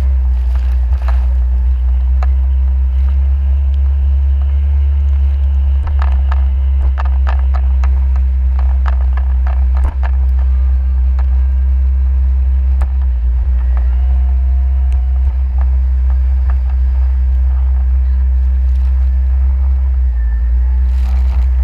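Jet ski engine running steadily with a deep, loud drone, with scattered short knocks, most of them about six to ten seconds in.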